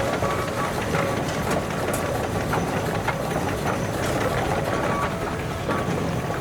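Steam engine running at low speed with a steady low rumble and scattered light knocks from its moving parts.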